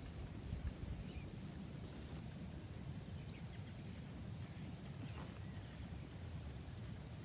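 Faint outdoor ambience: a steady low rumble with a few thin, high bird chirps, mostly in the first half.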